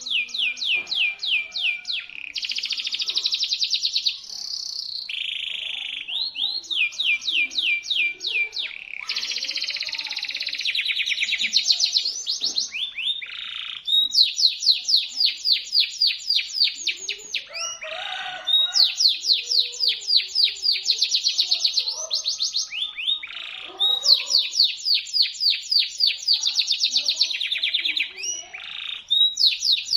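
Local-bred canary singing a long, shrill song: runs of rapid repeated notes, about ten a second, each phrase lasting a few seconds, with short breaks and changes of note between phrases.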